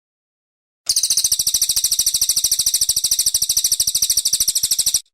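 Brown cililin songbird giving a loud, rapid, high-pitched trill of evenly repeated notes, starting about a second in and cutting off sharply near the end.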